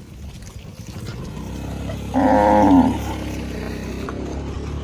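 Cow mooing once, a short call about two seconds in, over a low steady rumble.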